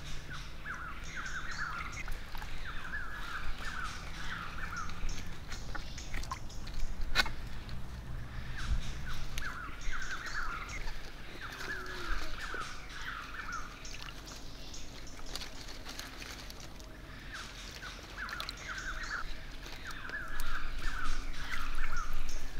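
A bird calling in short runs of quick repeated notes, several times over, with light water splashing near the end.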